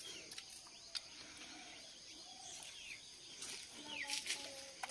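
Quiet background with birds chirping now and then, a few short falling chirps, clustered about three and a half to four seconds in.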